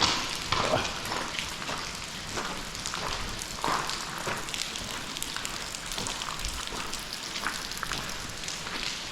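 Snowmelt water dripping and spattering inside a rock tunnel, a steady rain-like patter of many small irregular drops.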